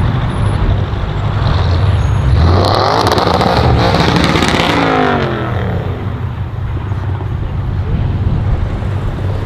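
Audi RS6 C7's twin-turbo V8 with a decatted Milltek exhaust driving by. It gets louder for about three seconds in the middle, its engine note falling in pitch as it goes, over a steady low rumble.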